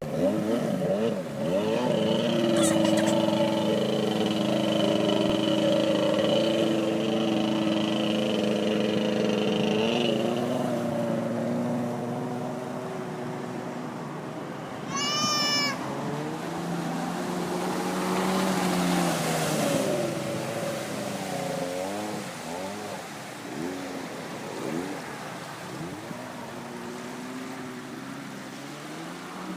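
Bombardier Sea-Doo personal watercraft's rebuilt two-stroke engine running on the water: steady for about ten seconds, then its pitch falls, climbs again and swoops up and down several times as the throttle is worked. A short run of high chirps comes about halfway through.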